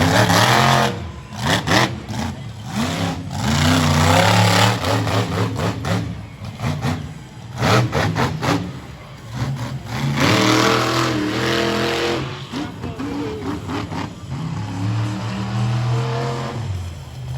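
Monster truck engine revving hard in repeated bursts, its pitch sweeping up and falling away several times, with sharp knocks between the surges.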